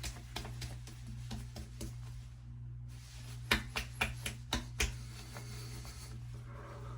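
Small clicks and taps of toiletry items being handled, with a cluster of louder sharp clicks between about three and a half and five seconds in, over a steady low hum.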